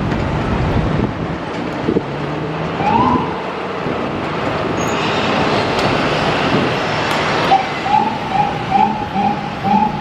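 Fire apparatus siren over steady traffic and engine noise: one rising whoop about three seconds in, then a run of short rising yelps, about two a second, near the end.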